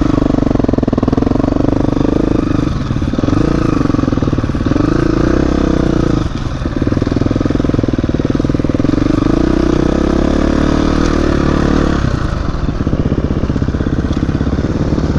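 Dirt bike engine running steadily while riding, easing off briefly a few times.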